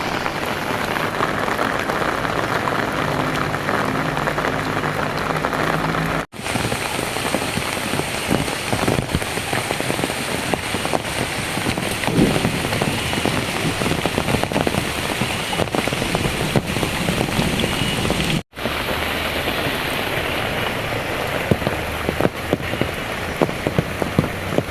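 Heavy rain pouring down steadily, a dense hiss of falling water and splashing drops. It breaks off for a split second twice.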